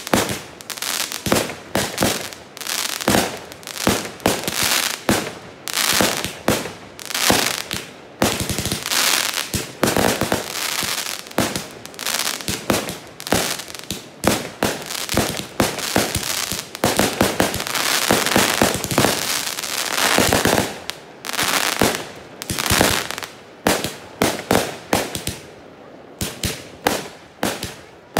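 Fireworks going off close by: a rapid string of sharp bangs and pops, several a second, with crackling between them and a denser stretch of crackle about two-thirds of the way through.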